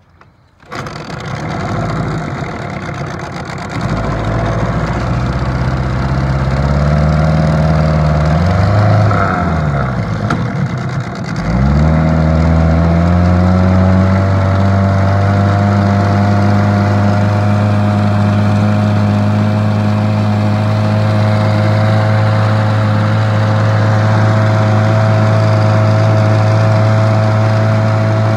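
1971 Johnson 9.5 horsepower two-cylinder two-stroke outboard motor starting about a second in and running. Its pitch wavers and rises, dips briefly around ten seconds, then climbs and settles into a steady higher-pitched run from about thirteen seconds on. The motor is freshly repaired and runs well.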